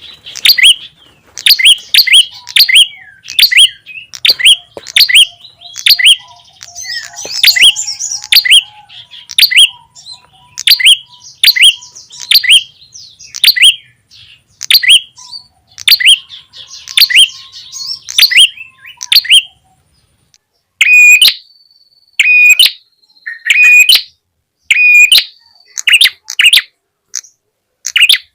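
Lure-call recording of prenjak calls: sharp chirps repeated about twice a second, each falling in pitch, with faint lower notes behind them. After a short break about two-thirds of the way in, the calls change to louder, harsher notes about one every second and a half.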